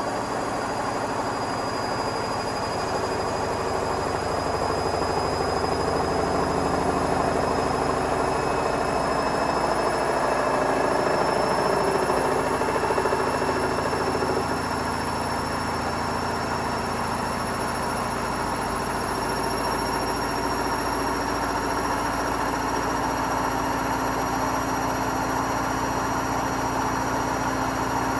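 Hotpoint Smart Tech WMFUG742 washing machine running its wool cycle with a load of bricks, the drum spinning steadily with a motor whine that slowly rises in pitch. It gets a little louder midway, then settles.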